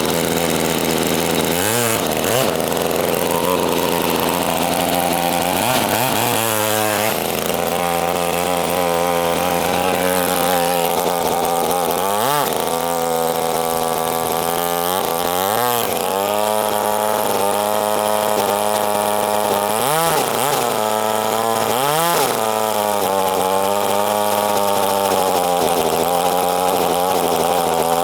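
Small engine of a homemade wearable motorcycle running steadily, revving up and dropping back about six times as the throttle is opened and released.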